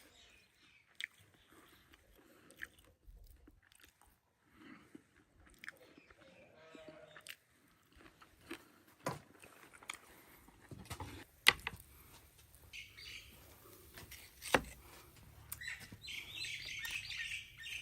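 Eating sounds: chewing and crunching, broken by scattered sharp clicks, with bird chirps late in the stretch.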